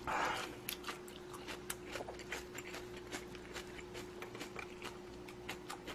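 Close-miked chewing of instant budae-jjigae noodles and kimchi: many small, irregular wet clicks and smacks, with a short breathy rush right at the start.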